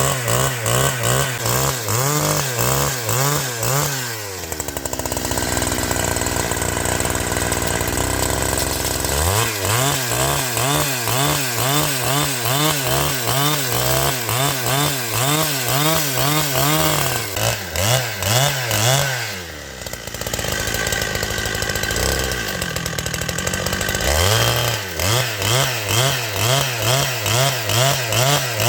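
Chainsaw running hard with a regular pulsing rise and fall in pitch. It drops to idle about 4 seconds in and again about 17 seconds in, revving back up around 9 and 24 seconds.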